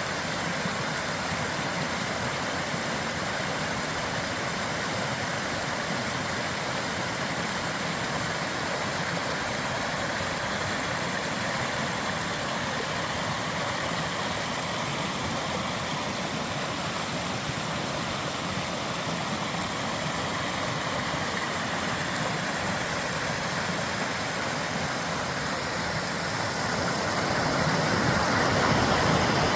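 A vehicle being driven: steady engine and road noise, growing a little louder near the end.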